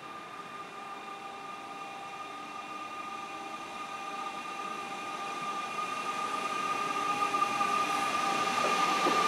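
Trenitalia electric multiple unit drawing in along the platform, its running noise growing steadily louder, with a steady high whine.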